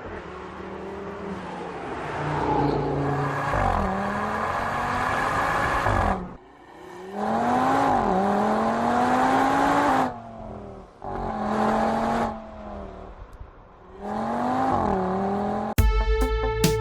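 Audi TT RS's turbocharged 2.5-litre five-cylinder engine pulling hard in repeated runs, its pitch climbing and then dropping back at each gear change, with several brief quieter lulls between pulls. Music comes in near the end.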